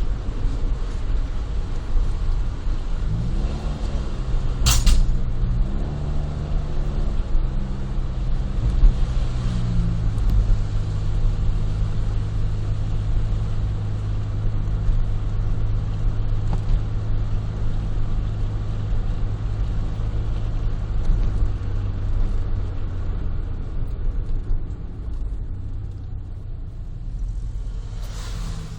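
Honda Life (JB5) kei car's 660 cc three-cylinder engine through a Rosso Modello GT-8 aftermarket muffler, heard from inside the cabin with a window open while driving. The pitch rises and falls through gear changes in the first few seconds, then settles into a steady drone while cruising and eases off near the end. There is one sharp click about five seconds in.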